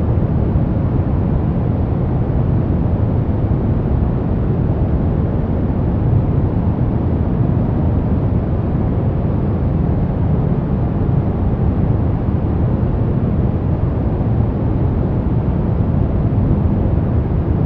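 Steady, unchanging noise sold as white noise for sleep, with most of its weight in the low end, so it sounds like a deep, even rush rather than a bright hiss.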